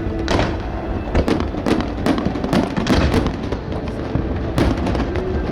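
A fireworks display going off, with many sharp bangs and crackles in quick, irregular succession and music playing underneath.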